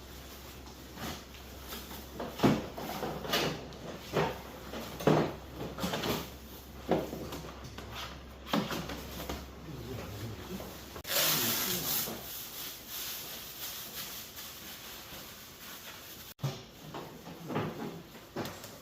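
Irregular knocks, clunks and rubbing from hands working on the casing and parts of a wall-mounted air conditioner, with a short burst of hissing about eleven seconds in.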